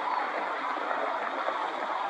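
A large flock of waterfowl calling all at once, a dense, continuous clamour of many overlapping voices.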